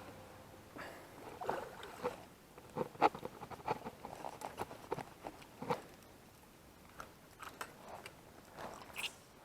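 Faint, scattered clicks and knocks, irregular and closely bunched for the first six seconds, then sparser.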